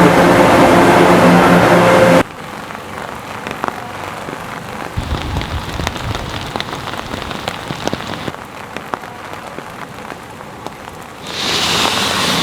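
Rain falling, an even hiss with scattered sharp drip ticks, which grows louder near the end. It is preceded by a loud droning sound with steady tones that cuts off abruptly about two seconds in.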